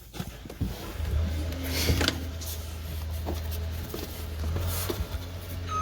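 A vehicle engine running nearby with a steady low drone that starts about a second in, over scattered clicks and knocks; a reversing alarm starts beeping at the very end.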